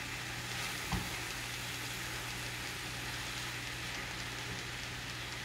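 Grated raw mango and sugar sizzling steadily in a pan as the sugar starts to melt, with a single low knock about a second in.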